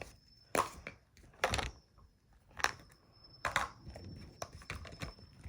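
Makeup items being handled and set down on a hard surface: a series of knocks and light clatters, four louder ones about a second apart, then smaller clicks.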